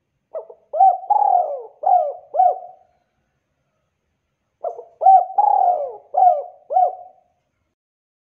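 Spotted dove (tekukur) cooing: two phrases of about five short coo notes each, the second starting about two seconds after the first ends.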